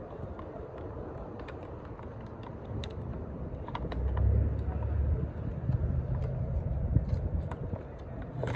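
A vehicle engine running with a low, steady rumble that grows louder about four seconds in, with scattered small clicks and ticks.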